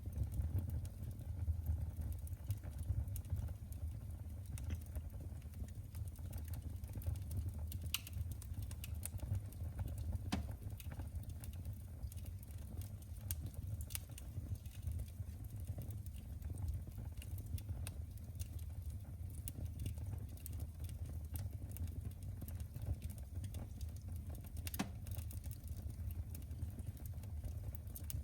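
Wood fire burning in a fireplace: a steady low rumble with irregular sharp crackles and pops, a few louder ones about eight, ten and twenty-five seconds in.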